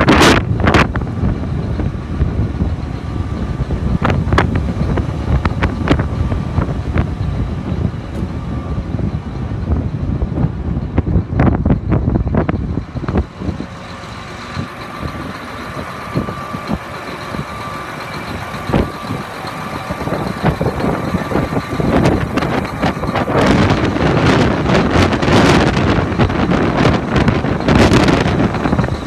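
John Deere 8360R tractor's diesel engine running steadily, with wind buffeting the microphone in irregular gusts.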